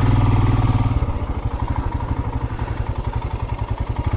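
Motorcycle engine running with an even, rapid pulsing beat. It drops to a lower, softer level about a second in, as if the throttle is eased off.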